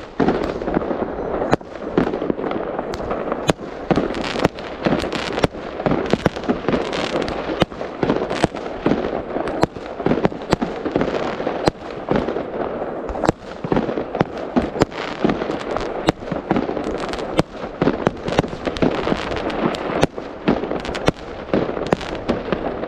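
Fireworks going off without a break: many sharp bangs and cracks in quick, irregular succession over a steady crackle.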